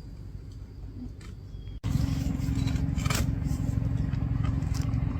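Quiet outdoor ambience with a few light clicks, then, after an abrupt cut about two seconds in, a vehicle engine running with a steady low drone.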